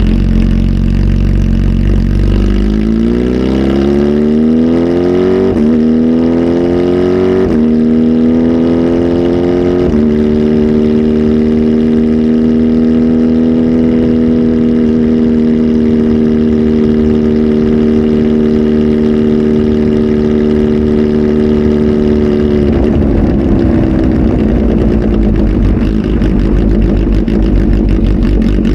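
Kawasaki Z H2 SE's supercharged inline-four, fitted with a full aftermarket exhaust and a flash tune, pulls up through three gears, with a sudden drop in pitch at each shift. It then holds a steady engine speed for about twelve seconds before dropping back to a low rumble near the end.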